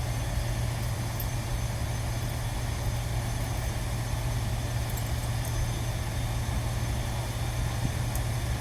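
Steady low mechanical drone, like an engine or machine running at a constant speed, unchanging throughout.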